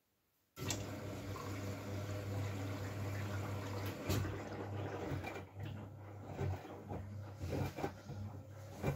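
Miele W433S washing machine taking in water: the inlet valve opens suddenly half a second in, and water rushes in with a steady hum. From about four seconds in, irregular knocks and splashes come from the drum.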